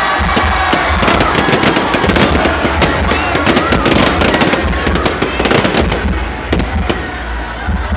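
Fireworks going off in a dense, unbroken run of crackles and bangs.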